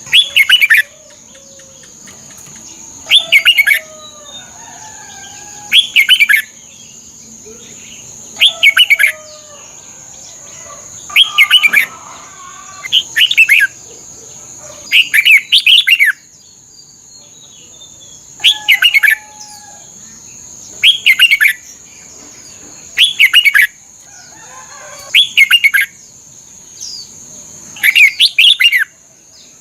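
Red-whiskered bulbul singing: about a dozen short, loud phrases of quick notes, repeated every two to three seconds, with softer chirps between them. A steady high-pitched tone runs underneath.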